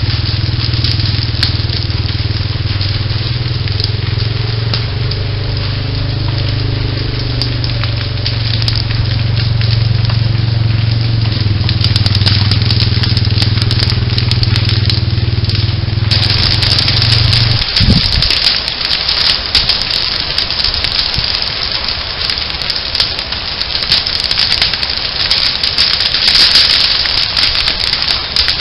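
Prescribed-burn fire crackling and popping, heard through a trail camera's microphone, over a steady low rumble. The rumble stops about two-thirds of the way in, leaving denser, sharper crackling.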